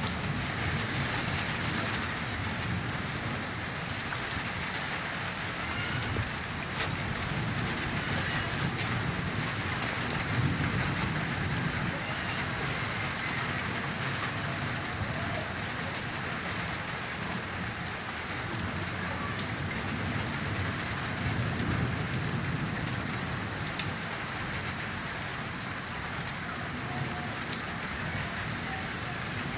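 Steady heavy rain falling, with drops pattering and ticking on hard surfaces. Low rumbles swell up about a third of the way in and again after two-thirds.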